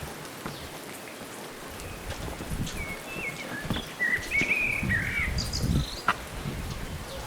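Footsteps crunching along a dirt trail, with low rumbling gusts of wind on the microphone. In the middle a bird calls a short run of warbling, gliding notes.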